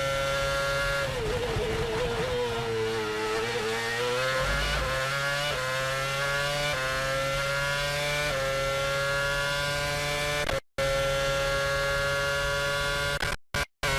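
Race car engine running at high revs. Its pitch dips and climbs back about a second or two in, then holds nearly steady with small steps. The sound cuts out abruptly once near the end and twice more just before it finishes.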